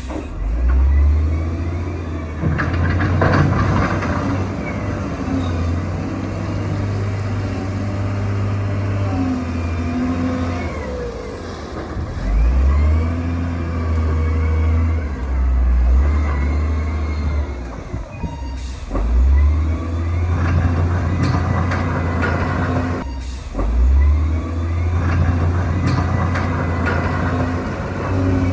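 Diesel engine of a heavy earthmoving machine working under load, its pitch stepping up and down every few seconds as it revs and eases off.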